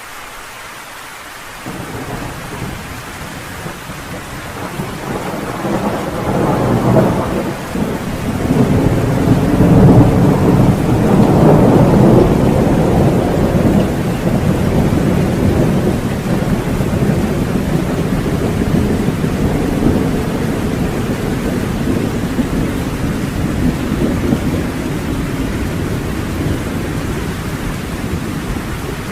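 Steady rain with a long roll of thunder. The rumble breaks in suddenly about two seconds in, builds to its loudest around ten to twelve seconds, then slowly dies away under the rain.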